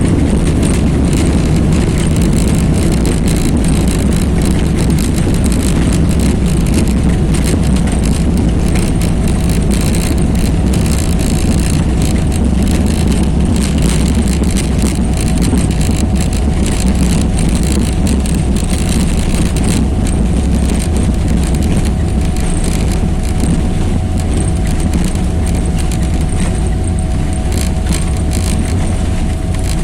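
Jet airliner cabin noise: a loud, steady rumble of the engines and airframe with a thin steady hum and light rattling of cabin fittings, easing slightly near the end.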